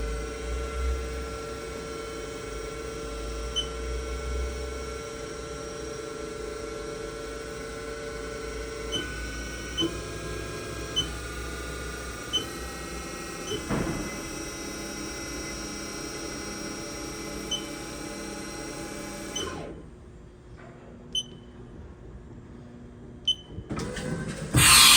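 Haas VF-0E vertical machining center's spindle running with a steady whine, its pitch stepping to new speeds several times in the middle, then spinning down and stopping about 20 seconds in. Afterwards a quieter hum with a few sharp clicks, and a loud hiss of air starts just before the end.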